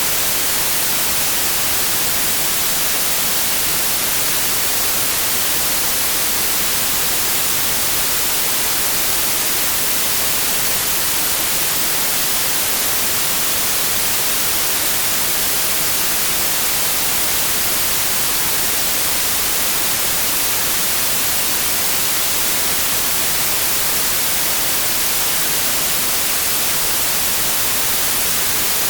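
Steady, unchanging synthetic white noise: an even hiss across the whole range, strongest in the highs.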